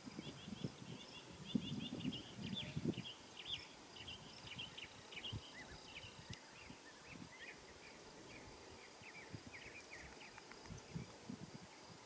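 Small birds chirping in many quick, short calls, with low rumbling in the first three seconds.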